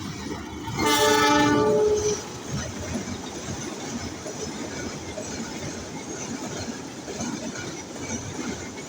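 Diesel locomotive's multi-tone horn sounding once for about a second, about a second in, followed by the steady rumble and rattle of a train running through the station.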